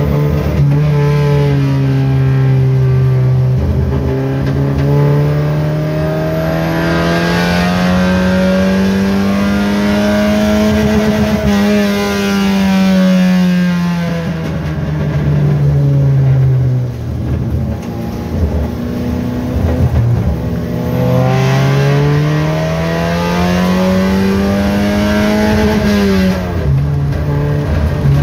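Kadett GSI 2.0 naturally aspirated four-cylinder, with a 4-into-1 header and no air filter, heard from inside the cabin under hard track driving. Revs climb in long pulls, drop sharply at two gear changes, and fall slowly through the middle as the car slows before climbing again.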